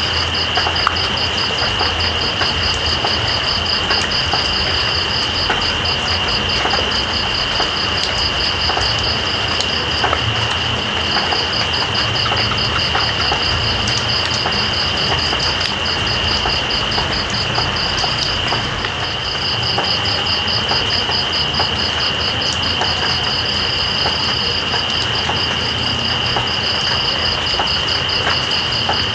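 Steady rain with scattered drip clicks, under night insects trilling: one continuous high trill and another higher one in rapid pulses that pauses briefly now and then.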